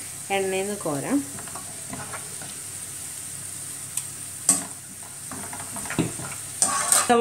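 Sliced onions deep-frying in hot oil with a steady sizzle, while a wire spider strainer stirs and scoops them out of the pan; a few sharp clicks of metal on the pan and colander, around the middle and again near the end.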